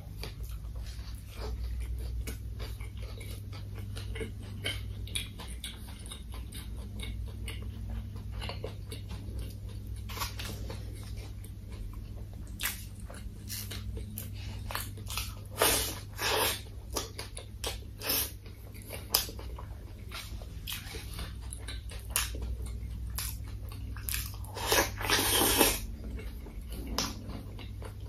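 Close-miked eating: a person chewing a burger with wet mouth clicks and smacks, with louder stretches of biting and crunching about halfway through and again near the end.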